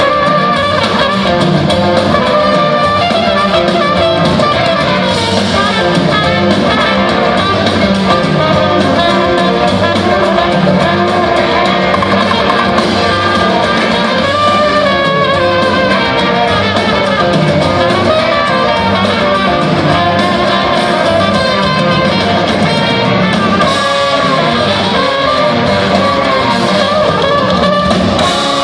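Live rock band jamming at full volume, with electric guitar prominent over a steady bass and drum groove.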